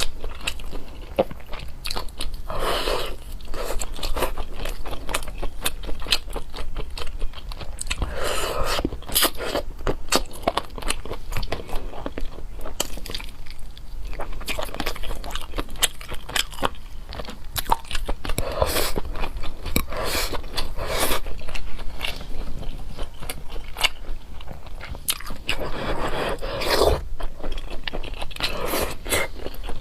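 Close-miked eating sounds: a person biting and chewing food, with many sharp crunchy clicks and louder clusters of bites every several seconds.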